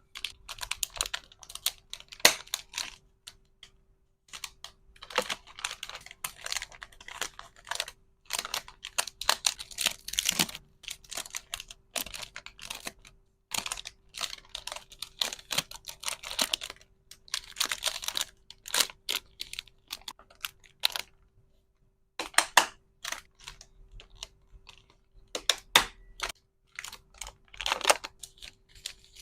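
Hands packing small plastic items: quick runs of clicks, taps and crinkles from resin hair clips and plastic packaging being handled, in bursts with short pauses between them.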